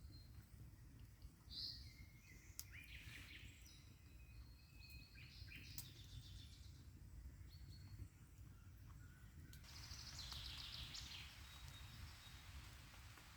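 Faint forest ambience with scattered birdsong: several short calls and trills, and a rapid trill about ten seconds in, over a low steady rumble.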